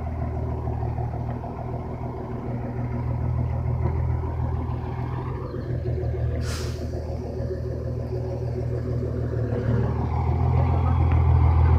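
Heavy truck engine running under load with a steady low drone, growing louder toward the end. A short burst of hiss cuts through about six and a half seconds in.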